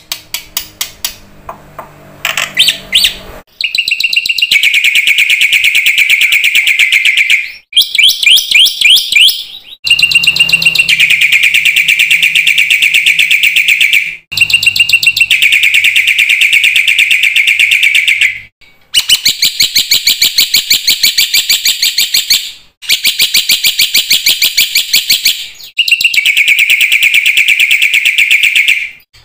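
Black-winged myna (jalak putih) singing loudly in long phrases of fast, harsh, repeated notes. Each phrase lasts several seconds, with short pauses between.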